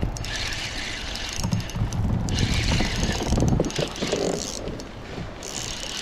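Kayak moving across the water, with surges of water hiss about every two and a half seconds, three in all, and wind rumbling on the microphone in the middle.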